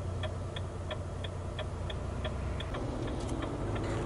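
Truck's indicator flasher ticking steadily, about three clicks a second, over the low hum of the idling diesel engine heard from inside the cab.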